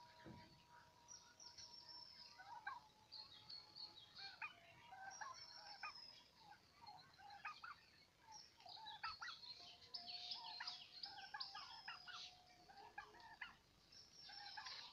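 Turkeys calling: a faint, busy stream of many short, high chirps and calls that overlap one another.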